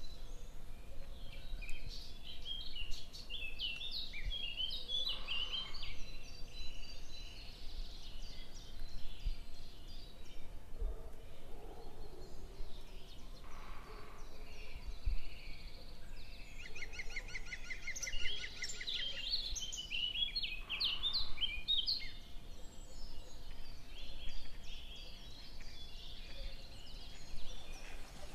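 Small birds chirping in two bouts, one at the start and another a little past halfway, the second with a rapid trill, over steady outdoor background noise.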